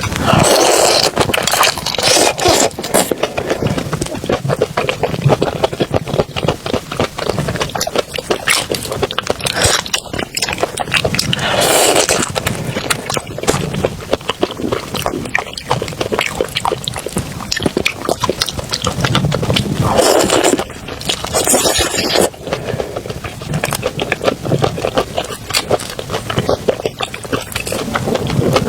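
Close-miked eating of shrimp: dense wet smacking, crunching and sucking of chewing, with a few louder surges along the way.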